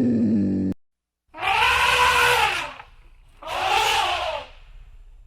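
An animal's harsh, loud cries: the end of one call cut off abruptly under a second in, then two more separate calls, each about a second long and rising then falling in pitch.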